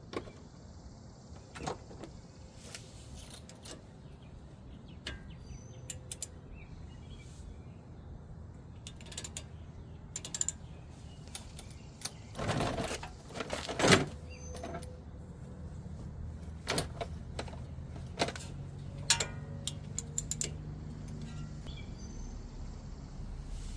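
Scattered clicks and knocks of things being handled, with a louder clatter and scrape about twelve to fourteen seconds in, over a low steady hum.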